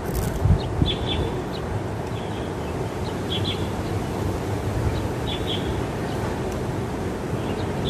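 A small bird giving short double chirps, repeated about every two seconds, over a steady low rumble.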